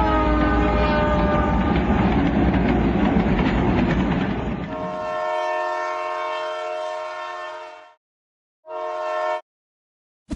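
Train rumbling past, then a multi-note train horn sounding for about three seconds and, after a short gap, once more briefly.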